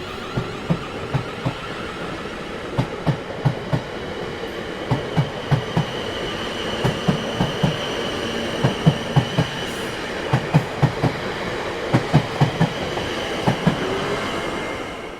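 Train wheels clattering over rail joints, a cluster of two to four clicks every second or so over a steady rolling rumble. A thin high whine joins in about six seconds in, and the sound drops away suddenly at the end.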